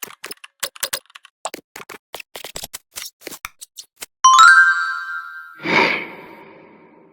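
Intro sound effects: a run of irregular typing clicks, then a loud ringing chime about four seconds in, followed by a second swell that fades out.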